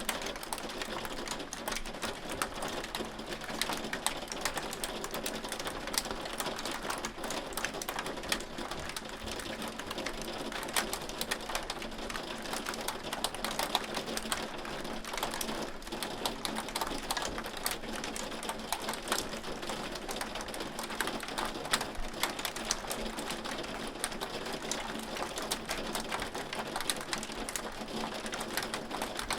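Hailstones falling steadily on a hard surface: a dense, irregular patter of sharp clicks over a continuous hiss, with a faint steady hum underneath.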